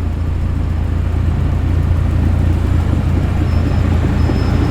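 Hot rod engines rumbling as the cars roll in at low speed: a deep, steady note that grows louder as they approach.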